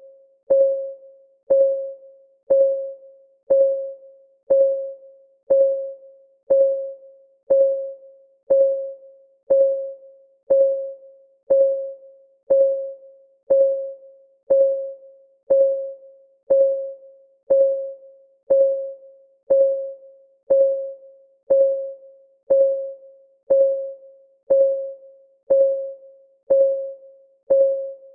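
Clock ticking at a steady tick-tock, about two ticks a second alternating louder and softer. Each tick is a short click with a brief ringing tone.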